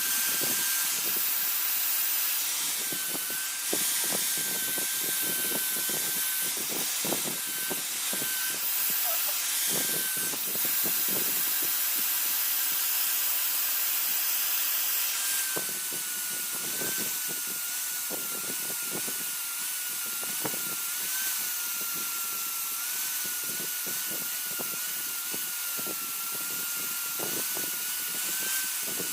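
A power tool runs steadily throughout, with a high whine that wavers a little in pitch over a hiss and scattered short clicks.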